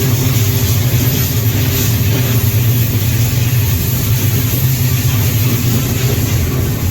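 Steady, loud low rumble and rushing noise of a moving freight train, heard from aboard a car.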